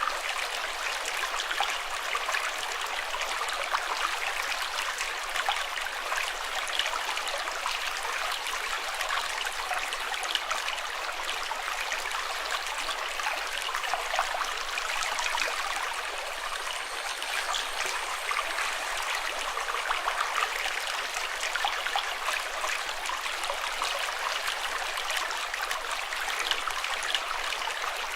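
Running water babbling steadily, a dense even rush full of small splashes and trickles, with no change over the whole stretch.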